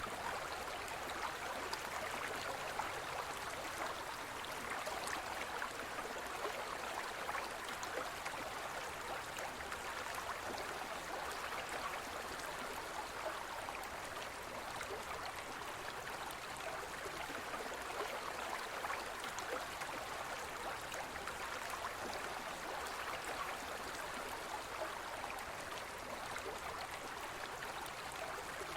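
Gentle forest stream flowing steadily over rocks: a continuous even rush and babble of water.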